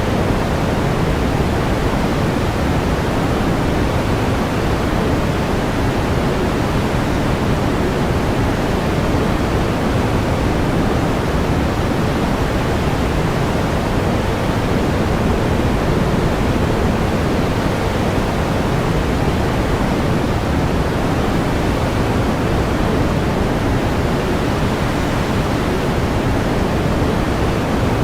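Steady synthetic pink noise: an even, unchanging hiss, fuller in the lows and softer in the highs.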